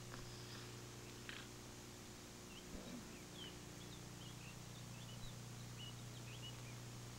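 Faint birds chirping, many short high twitters scattered throughout, over a steady low hum and hiss.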